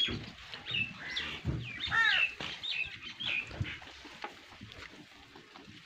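Small birds chirping in short, quick calls several times, over the low rustle and chewing of goats feeding on potato vines in a wooden trough.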